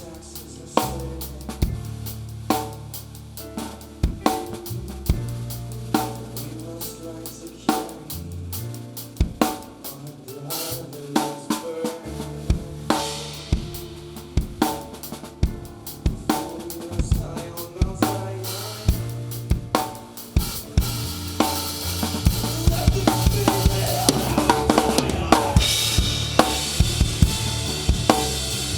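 Live band playing an instrumental passage with the drum kit loudest: snare and bass drum hits over bass and guitar notes. About two-thirds of the way in the drumming gets busier with crashing cymbals and the music builds and gets louder.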